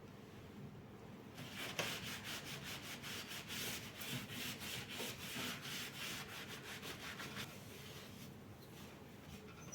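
Quick, rhythmic rubbing strokes against a hard surface. They start about a second in and stop well before the end.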